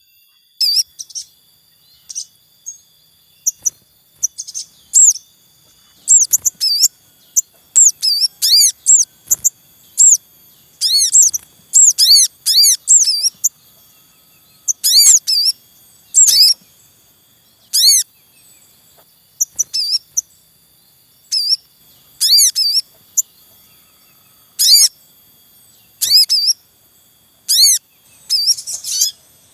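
Sogon birds calling in a noisy breeding group. Clusters of sharp, high chirps come every second or two with short gaps between, over a faint steady high whine.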